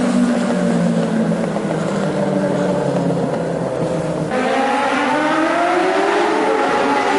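Motorcycle engine sound, the pitch falling steadily as the engine winds down for about four seconds. Then it abruptly rises again at about four seconds in, climbing in pitch under fresh throttle.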